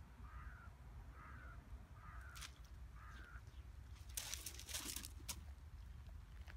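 A bird calling faintly in a series of short, arched calls, about one a second, over a steady low rumble. About four seconds in, a brief burst of rustling and crunching follows.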